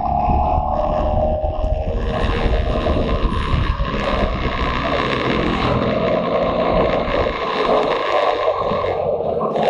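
Motorcycle engine running on the road, its pitch easing down over the first two seconds, with wind rushing over the microphone.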